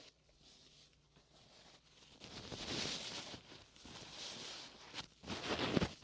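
Oiled hands rubbing and sliding over skin in slow massage strokes, a slick, wet swishing. It is faint at first, the strokes start about two seconds in, and the loudest one comes near the end.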